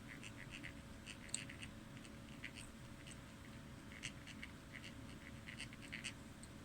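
Faint, irregular clicking and scratching in little clusters, like small parts and hand tools being handled, over a steady low background hum.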